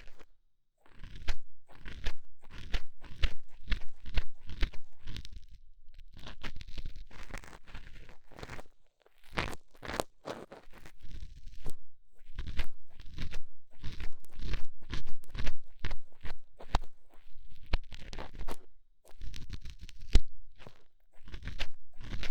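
Ear-cleaning ASMR: a tool scraping and scratching inside a microphone's ear, in quick, irregular crunchy strokes that come in clusters with brief pauses.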